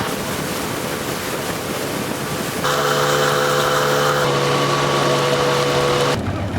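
An engine runs steadily under a rushing noise. Its tone and loudness change abruptly about two and a half seconds in and again near the end.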